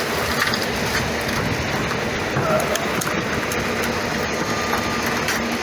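Heil 5000 rear-loader garbage truck running: a steady, dense mechanical noise of engine and machinery.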